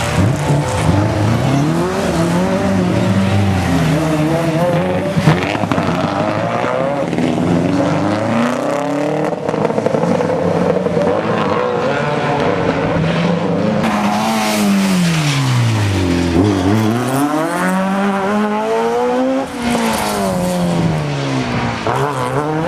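Rally car engine at full throttle, its note climbing and dropping again and again through gear changes and lifts, with a deep drop and fresh climb about two thirds of the way through.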